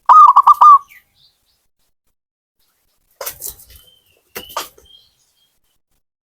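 Zebra dove (perkutut) cooing: a rapid run of about five loud pulsed notes near the start. Two fainter, scratchier short calls follow about three and four and a half seconds in.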